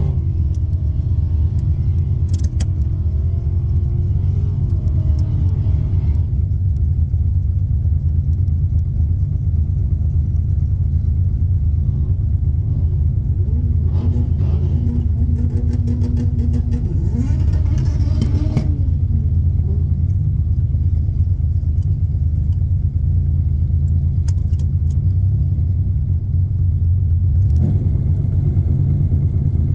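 Turbocharged Buick V6 of a Grand National drag car running at a steady, heavy idle, heard from inside the cabin. The engine briefly revs up and settles back down about halfway through.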